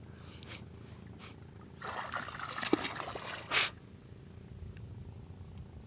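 Seawater sloshing and splashing as the fishing net is worked over the side of the boat, with one short, loud splash about three and a half seconds in.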